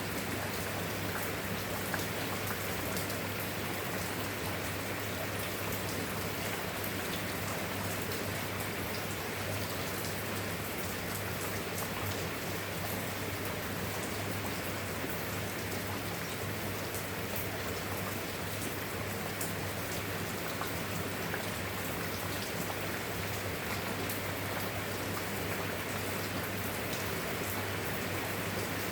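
Steady rain: an even hiss with many small drop ticks, unchanging throughout, over a low steady hum.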